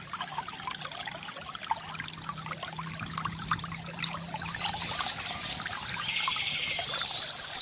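A small stream trickling and babbling steadily, with birds singing over it in the second half.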